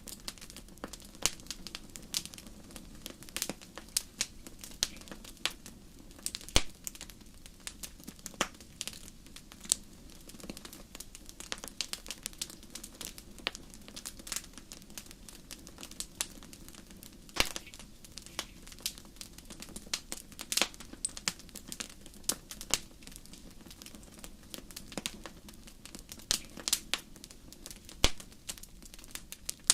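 Wood fire crackling in a fireplace: irregular sharp pops and snaps, with a few louder ones scattered throughout, over a low steady background noise.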